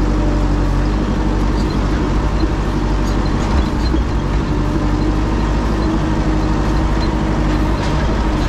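Tractor engine running steadily at an even speed, loud and close.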